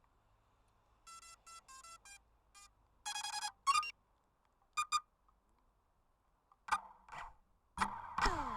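Quadcopter's ESCs beeping short electronic tones of differing pitch through the motors, the startup and arming signal before flight. Faint at first, with the louder beeps a few seconds in. Near the end, short sounds with falling pitch lead into the motors spinning up.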